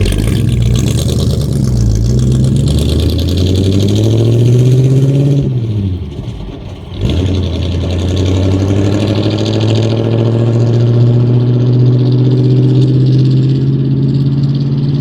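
1950 Ford F1 pickup's flathead V8 pulling under load: the engine pitch climbs for about five seconds, drops sharply with a brief dip in level about six seconds in, as for a gear change, then climbs slowly and steadily again.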